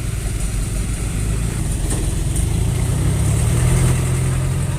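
Heavy diesel engine of construction machinery running with a low drone that grows a little louder about three seconds in.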